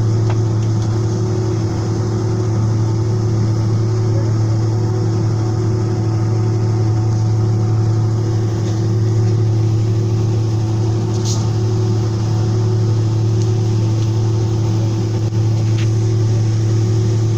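Steady drone of an airliner's jet engines heard inside the passenger cabin, a low hum that holds level throughout. Two faint clicks sound, one about eleven seconds in and one near the end.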